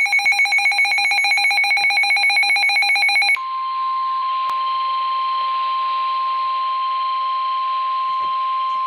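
Weather-alert tones over a radio channel: a rapidly pulsing electronic alert tone for about three seconds, then a single steady tone of about 1 kHz, the NOAA Weather Radio warning alarm that signals a National Weather Service warning is about to be read.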